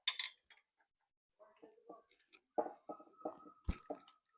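Metal-on-metal clicks of a spanner working a spark plug loose from the engine: a click at the start, then a run of about six short clicks about three a second near the end.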